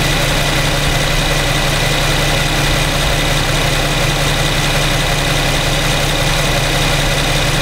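2015 Infiniti Q70's 3.7-litre V6 (VQ37VHR), warmed up, idling steadily: an even low hum with a steady high-pitched whine above it.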